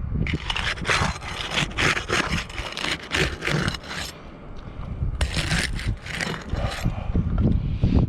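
Repeated gritty scraping and scuffing on weathered asphalt roof shingles, with a brief lull about halfway through.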